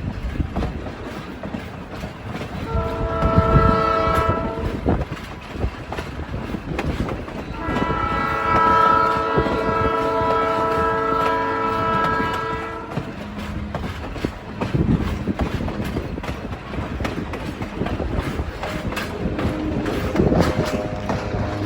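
Locomotive horn sounding several blasts: one ending just after the start, a short blast about three seconds in, and a long blast from about eight to thirteen seconds. Under the horn, the train rumbles along with wheels clattering over the rails.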